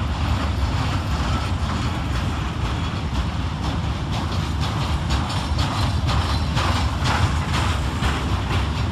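A train moving through the station: a steady low rumble of running gear and engine, with wheels clattering on the rails.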